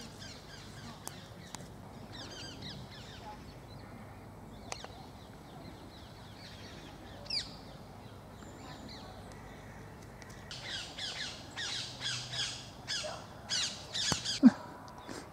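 Wild birds calling: faint high chirps at first, then from about ten seconds in a run of loud, harsh, repeated squawks. A single sharp knock sounds near the end.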